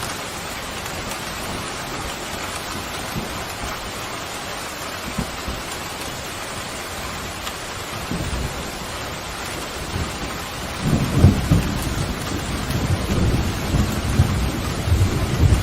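Pouring rain falling steadily, with a low rumble of thunder coming in about halfway through and growing louder toward the end.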